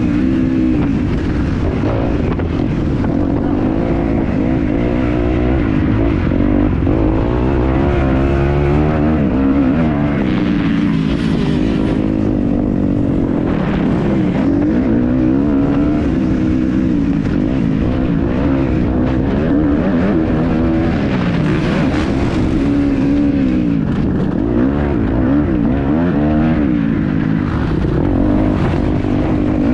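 Kawasaki KX250F 250 cc four-stroke single-cylinder motocross engine being ridden hard. Its pitch climbs and drops repeatedly as the throttle is opened and closed through the gears.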